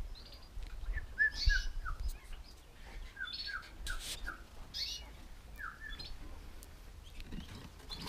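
Small birds chirping: short chirps that drop in pitch, in quick runs of three or four, mixed with higher, sharper calls.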